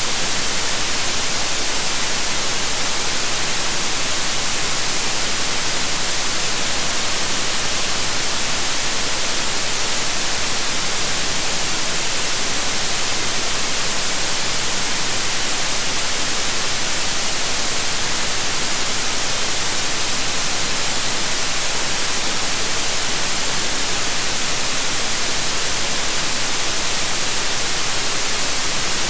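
Electronically generated white noise: a steady, even hiss, brightest in the treble, with no change in level.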